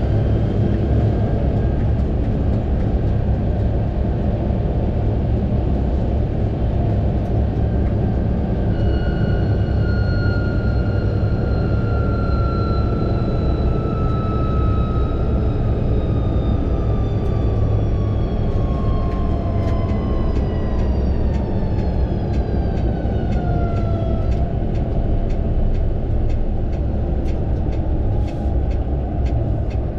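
Fendt 936 Vario tractor running under way with a steady heavy rumble. A whine falls steadily in pitch from about a third of the way in until past two-thirds, and a regular light ticking, about two a second, starts about halfway and carries on to the end.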